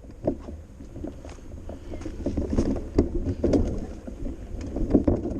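Bicycle rattling and knocking over rough, uneven ground, with a low rumble of tyres and wind underneath; the knocks come irregularly and grow busier from about two seconds in.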